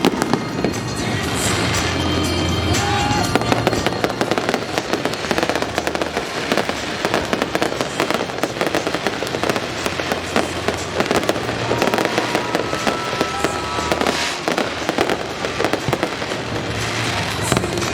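Fireworks display: continuous dense crackling and popping with repeated low booms, music playing along.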